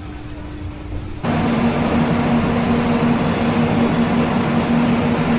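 Steady mechanical running noise with a low hum. It starts as a quieter rumble and jumps abruptly to a much louder, even roar about a second in.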